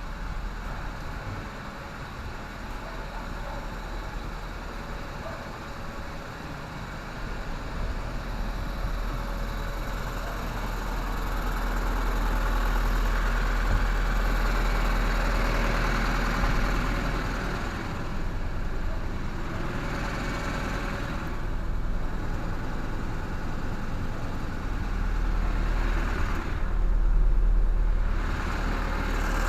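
Engine running steadily with a deep hum, joined by a rushing noise that grows louder about a third of the way in and drops away briefly twice near the end.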